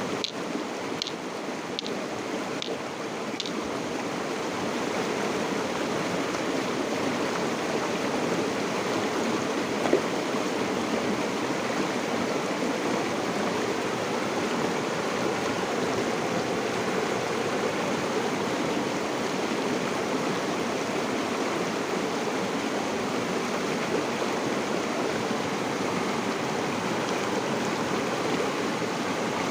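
River water flowing in a steady, continuous rush. A few short high peeps sound about once a second in the first few seconds.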